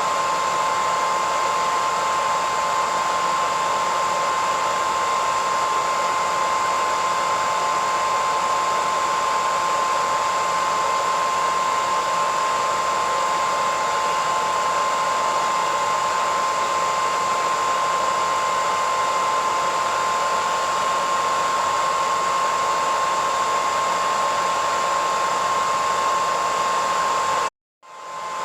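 Hairdryer running steadily: a constant rushing air noise with a high, steady whine. Near the end it cuts out for about half a second and comes back up.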